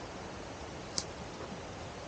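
Steady rushing of a river, an even hiss of water, with a single short high-pitched chirp about a second in.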